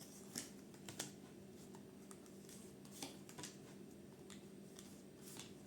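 Near silence with a few faint, short clicks and taps, typical of tarot cards being drawn and laid down on a table.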